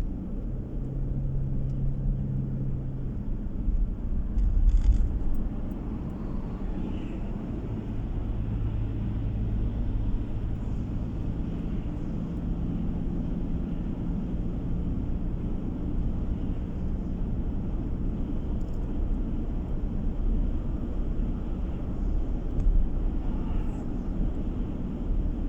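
Car driving along a road, heard from inside the cabin: a steady low road and engine rumble, with a low engine tone that shifts a little in pitch as the speed changes.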